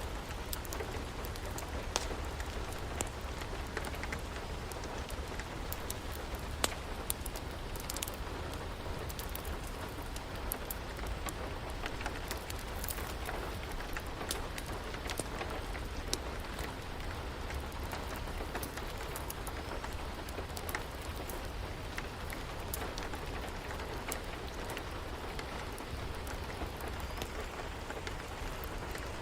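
Steady rain falling, with scattered sharp pops of a crackling wood fire at irregular moments.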